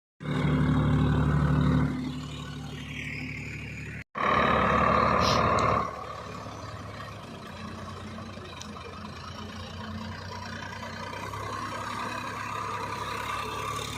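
Tractor diesel engine running, loud in the first two seconds and again for about two seconds after a sudden break at about four seconds, then settling to a steady, quieter run.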